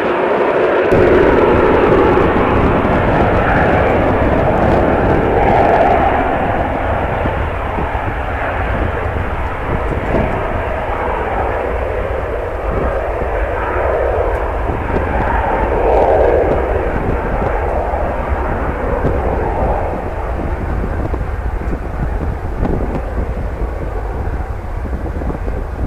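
Jet airliner engines, a loud rushing roar that swells and eases and tapers somewhat in the last few seconds, with gusty wind rumbling on the microphone underneath.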